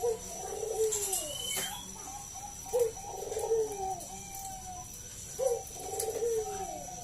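Zebra dove (Bangkok-strain perkutut) cooing: three song phrases about two and a half seconds apart, each a short opening note followed by a rolling, trilled coo that falls away at the end.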